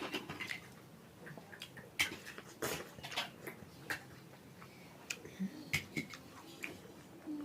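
Eating sounds close to the microphone: irregular chewing, lip smacks and sharp little clicks.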